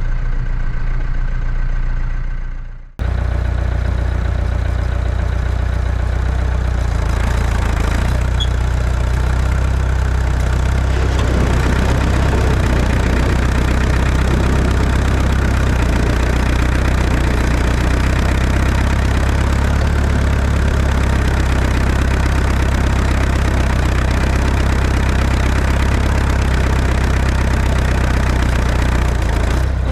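Tractor engine running steadily with a low, even hum. About three seconds in the sound fades and cuts back in, and from then on a steady rushing noise sits over the engine.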